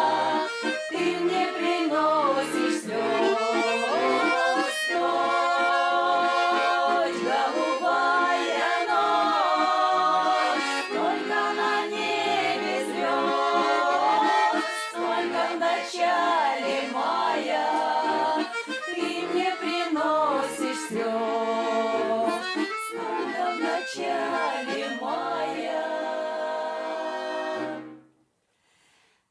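Accordion music: a folk tune played with melody and a steady bass accompaniment, which breaks off suddenly near the end, leaving a moment of silence.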